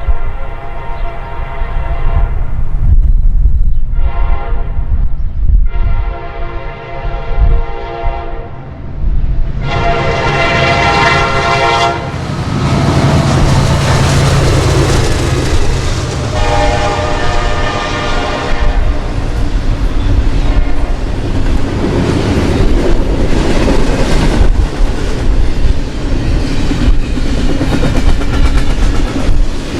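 Locomotive air horn sounding a series of long blasts, one shorter, as a train approaches. The train then passes close by with loud, steady rumbling and wheel noise on the rails, and the horn sounds once more partway through the pass.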